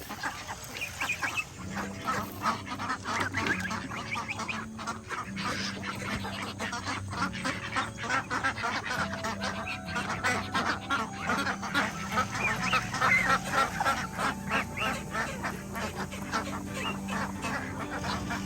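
A flock of domestic ducks and geese calling noisily, with many overlapping quacks and honks, as they clamour for their feed.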